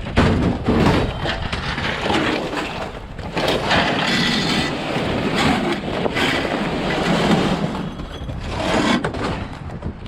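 Scrap metal clattering and clanking as pieces are tossed and dumped onto a pile, a steady run of irregular knocks.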